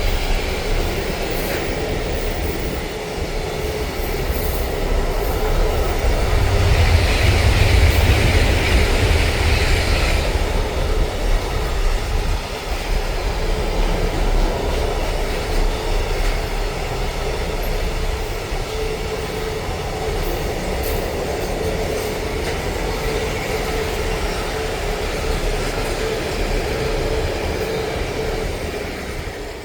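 Train running past on the railway line: a steady rumble of wheels on rail, louder about seven to ten seconds in, fading away near the end.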